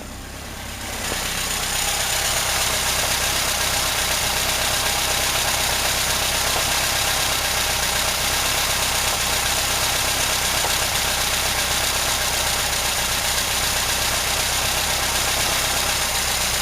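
VAZ-2103 four-cylinder engine idling cold on petrol at about 900–1100 rpm, with the light, irregular knocks that the owner is trying to trace. It grows louder about a second in, then runs steadily.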